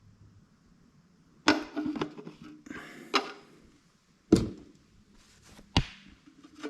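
Handling knocks and clunks in a workshop: four sharp knocks spread over several seconds, with a stretch of scraping and rustling after the first.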